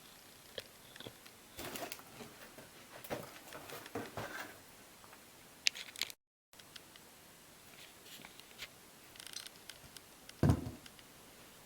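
Irregular plastic clicks, rattles and rustles from a toy washing machine being handled, with one louder knock about ten and a half seconds in. The sound cuts out completely for a moment about six seconds in.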